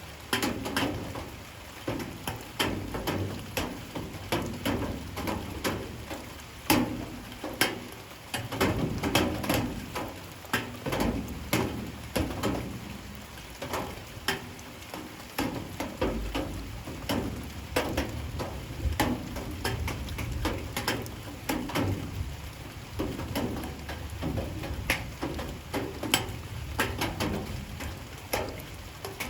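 Light rain falling, with many irregular drops and drips ticking sharply on a hard surface over a steady patter.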